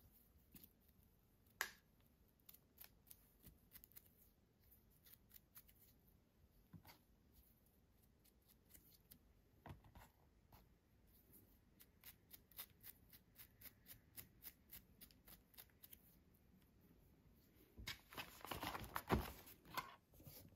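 Faint clicks and light scratching of hands brushing soil off freshly picked bolete mushrooms, with a louder spell of rustling near the end.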